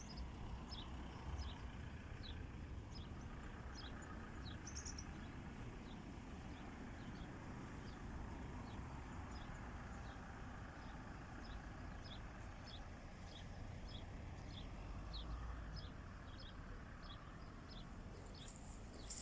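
Faint outdoor ambience: a small bird chirping over and over in short, high notes, over a steady low rumble.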